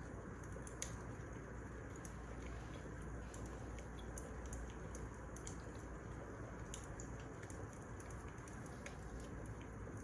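Wood fire burning in a fireplace: a steady low rumble with irregular sharp crackles and pops, one a little louder about a second in.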